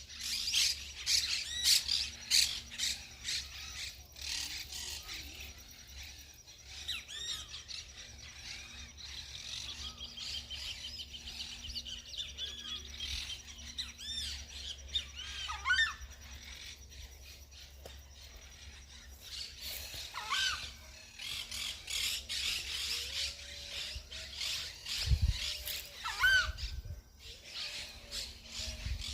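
Several birds chirping and calling: quick, repeated, sharp chirps and looping whistled notes, with a thin, steady high trill through the middle part. A low hum sits underneath for much of the time, and there are a couple of dull thumps near the end.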